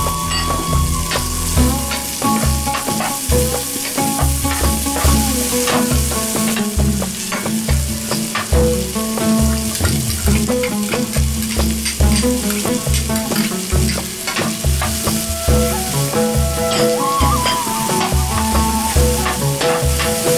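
Diced onions, garlic and ginger sizzling in a frying pan, with a spoon scraping and stirring them. Background music with a steady bass beat and a melody plays over it.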